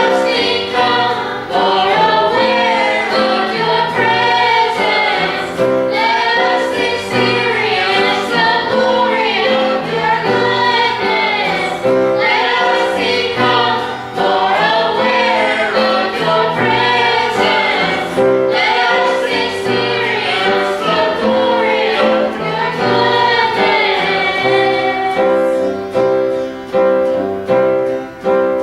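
Gospel song sung by a small group of singers in phrases over steadily held accompanying chords. Near the end the voices drop away while the chord keeps sounding.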